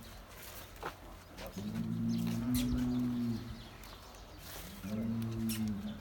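A bull mooing twice, low and drawn out: a long call of about two seconds, then a shorter one about five seconds in.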